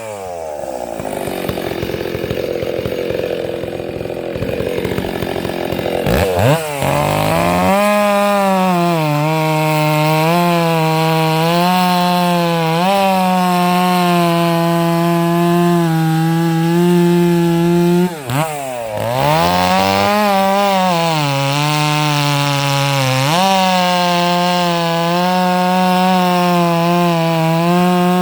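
Stihl 064 two-stroke chainsaw idling, then revved to full throttle about six seconds in and cutting wood, its pitch sagging and recovering as the chain bites. About two-thirds of the way through it drops off throttle briefly, then revs back up and cuts again.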